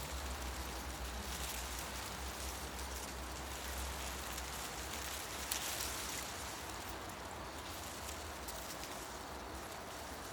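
Forest ambience: tree leaves rustling in the wind as a steady hiss over a low rumble, with one sharp click about five and a half seconds in.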